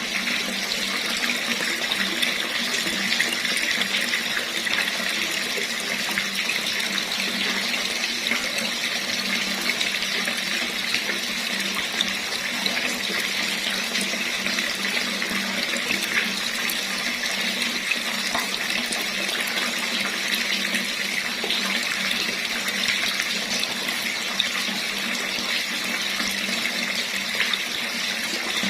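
Tap water running steadily, an even rushing splash with no change in flow.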